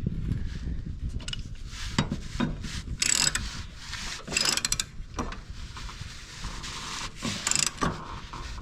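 Ratchet wrench clicking in three short quick runs, with single metal knocks between them.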